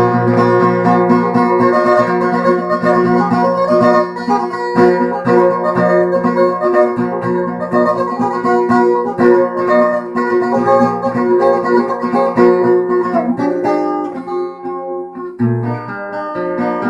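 Acoustic guitar played solo, an instrumental break of picked notes over a steady bass line between sung verses of a folk ballad.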